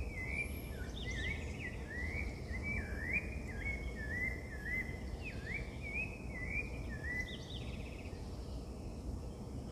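A songbird singing a fast run of swooping whistled notes, over and over, until about seven seconds in. A steady low rumble of outdoor background noise runs beneath it.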